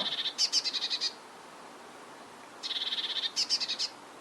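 Blue tit singing: two phrases of high, rapidly repeated notes, the second starting about two and a half seconds in.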